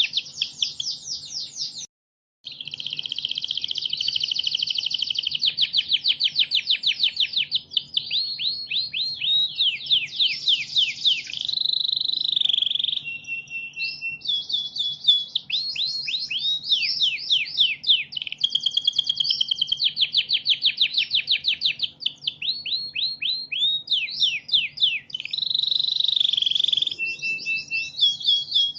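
Domestic canary singing a long, continuous song of rapid trills: fast runs of repeated sweeping notes, changing to a new trill every second or two. There is a brief break about two seconds in.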